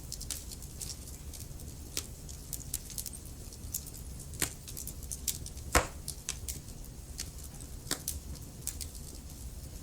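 Wood fire in a fireplace crackling: irregular sharp pops and snaps, with a louder pop near six seconds in, over a steady low rumble.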